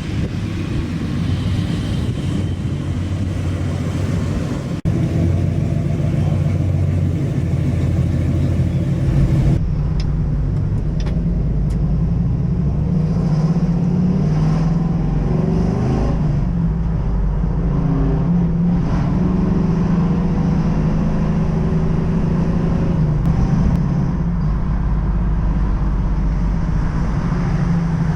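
Pontiac Firebird's engine running while the car is driven on the road, its pitch rising and falling with the throttle.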